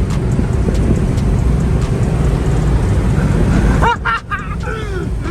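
Loud, steady rumble of a four-wheel drive on the move, engine and wind noise together. It cuts off abruptly about four seconds in, and a voice with gliding pitch takes over.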